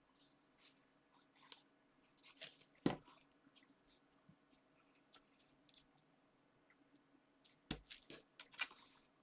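Soft, scattered rustles and taps of paper and card being handled and pressed together as layers are stuck, with a sharper tap about three seconds in and a cluster of taps and rustles near the end.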